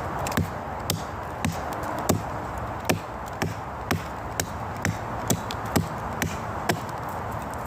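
Wood being chopped with a blade, sharp even strokes about two a second, over a steady background hiss.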